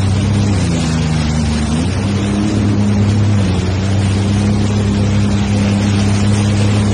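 Jet ski engine running steadily under way, its pitch dipping and then rising again about a second in, with a steady rushing noise over it.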